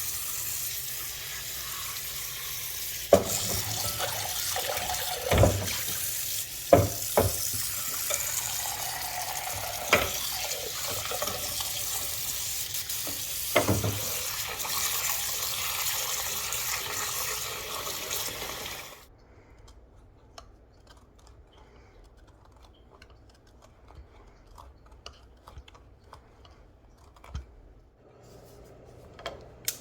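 Kitchen tap running into the sink with several knocks, then shut off suddenly about two-thirds of the way through, leaving only faint light clicks.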